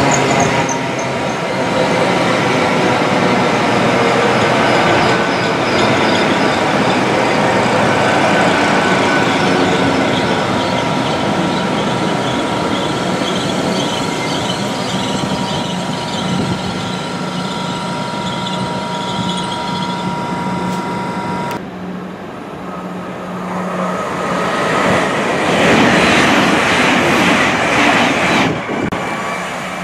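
Great Western Railway Hitachi Intercity Express trains running through the station. For about the first two-thirds there is a steady whine at several pitches with a high wavering squeal over it. After a sudden break, a louder rush swells up as a train moves close by near the end.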